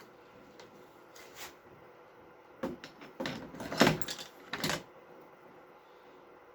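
A handful of short knocks and scrapes of metal parts being handled as an old 1-inch impact driver is taken apart, the loudest about four seconds in.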